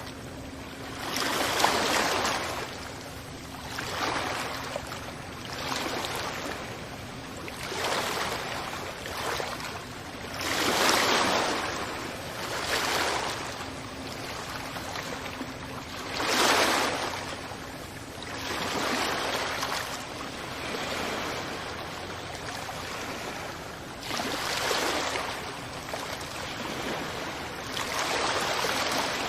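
Ocean waves breaking on a beach, each wave a rush of surf that swells and fades. They come every few seconds, some louder than others.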